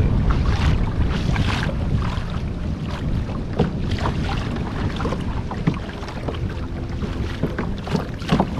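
Wind buffeting the microphone in a steady low rumble, with small waves splashing and slapping irregularly against a kayak's hull.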